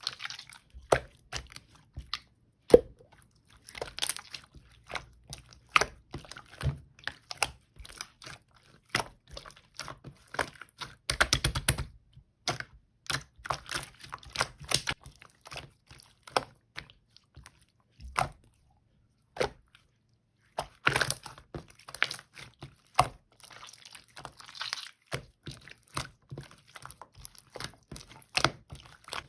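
Slime being pressed and squeezed by hand, giving irregular sharp clicks and crackles, with a fast run of clicks about eleven seconds in.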